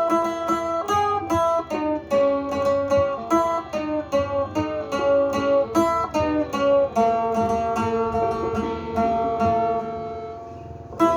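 Sueng, the northern Thai plucked lute, playing a melody of single picked notes that ring and decay. Near the end a held note rings out and fades.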